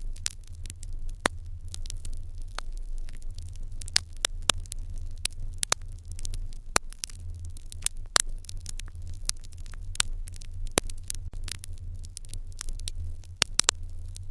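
Open fire in a Japanese irori hearth crackling, with frequent irregular sharp pops and snaps over a steady low rumble.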